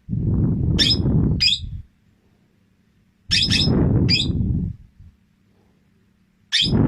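Pet parrot calling in three bursts about three seconds apart, each a quick pair of sharp high chirps over a louder, rough, noisy lower sound.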